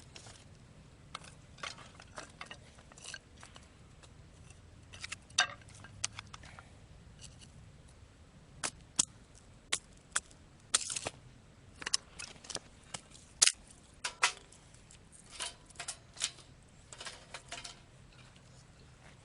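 Knife batoning wood into thin kindling: irregular sharp cracks, taps and splitting snaps, busiest and loudest in the middle of the stretch.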